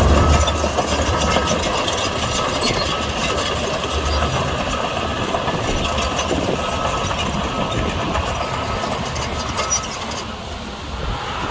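Heavy earthmoving machinery's diesel engine running steadily with a deep rumble, easing off a little near the end.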